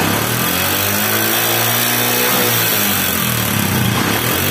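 Honda CD80's 80cc single-cylinder four-stroke engine revving up and dropping back, with a harsh rattle from the cylinder head, as if it were breaking apart. The mechanic traces the noise to a worn camshaft, with the piston's gap to the cylinder too high after a faulty ring and piston job.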